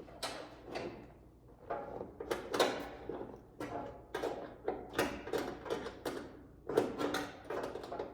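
Front spoiler being fastened to the car body: a run of irregular scrapes, clicks and knocks as nuts are worked onto its mounting studs and the studs catch on the body metal.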